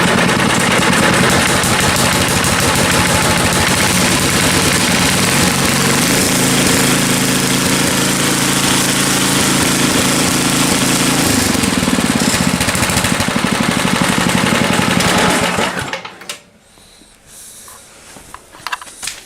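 A John Deere snowblower's engine running steadily, then shut off about sixteen seconds in, followed by a few small knocks. The snowblower has freshly fitted auger and drive belts, and its auger keeps spinning even when it is not engaged, which the owner thinks may come from a belt tensioner set too tight.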